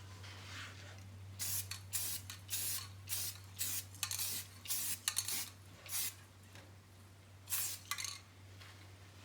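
Spray paint hissing out in about a dozen short bursts as a part is coated. A steady low electrical hum runs underneath.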